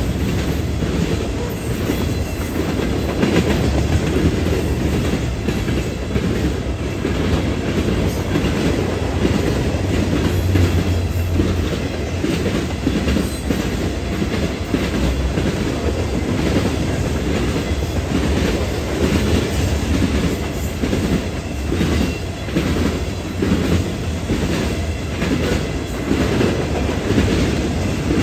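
Railroad cars rolling past steadily, wheels clicking over the rail joints with a continuous low rumble.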